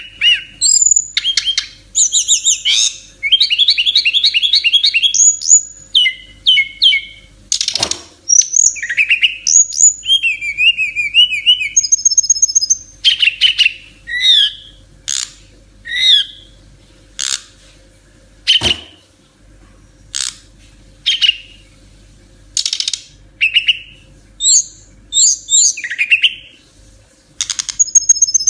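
An SRDC (sikatan rimba dada coklat, a jungle flycatcher kept as a songbird) singing loudly and without letup. It runs through varied phrases of high whistles, fast trills and short sharp notes with brief pauses between them. There are two sharp knocks, about eight seconds in and again near nineteen seconds.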